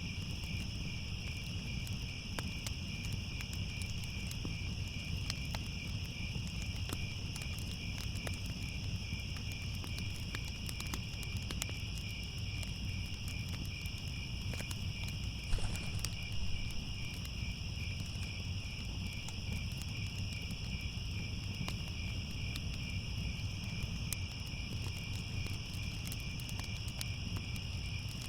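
Crickets chirping in a steady, unbroken chorus over a crackling fireplace fire, with scattered small pops and one louder pop about fifteen seconds in, all over a low rumble.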